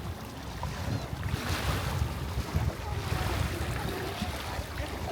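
Sea waves washing on the shore, with wind buffeting the microphone in a low rumble.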